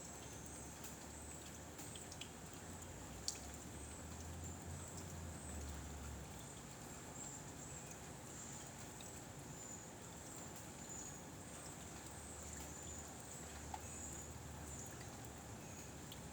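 Faint outdoor ambience: wind buffeting the microphone in low rumbling gusts, twice swelling for a few seconds, over a steady high-pitched chirring and a few small clicks.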